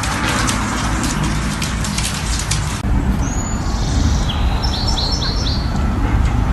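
Small birds chirping, with a quick run of four short rising chirps, over a steady low outdoor rumble. Before that, a dense crackling cuts off abruptly about three seconds in.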